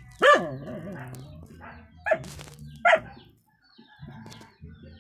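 A dog barking: three sharp barks, one just after the start and two more about two and three seconds in.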